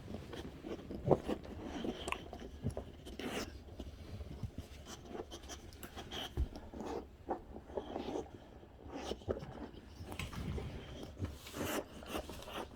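Boxer dogs nosing and digging through a fabric snuffle mat for hidden treats. Irregular rustling and scraping, with bites and chewing as treats are found.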